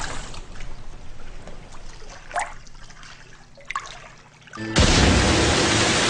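Water trickling and dying away, with two single drips plinking about two and a half and three and a half seconds in. Near the end a loud rush of noise with music cuts in suddenly.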